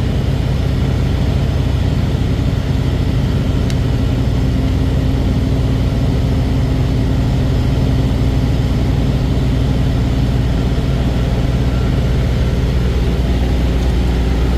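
Semi-truck running down the road: a steady low engine and road drone that holds even throughout.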